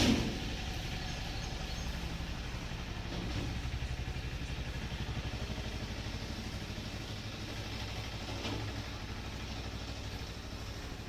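A sharp bang at the very start, then a motor idling steadily with a fast, even low pulse.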